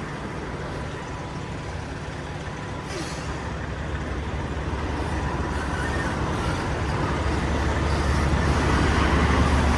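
Semi-truck running, its low engine rumble growing steadily louder, with a brief hiss about three seconds in.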